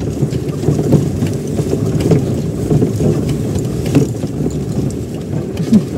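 Inside a car's cabin on a rough, bumpy road: a steady rumble of engine and tyres, with scattered knocks and rattles as the car shakes.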